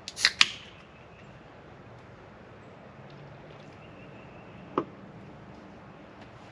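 A few sharp clicks and knocks from objects being handled: two or three in quick succession near the start, then a single one about five seconds in, over quiet room tone.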